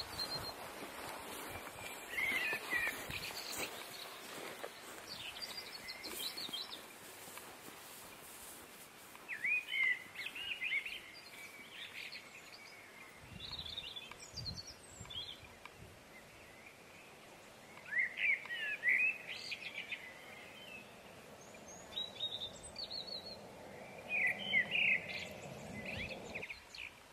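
A bird singing short, quick twittering phrases every few seconds over a steady faint outdoor hiss.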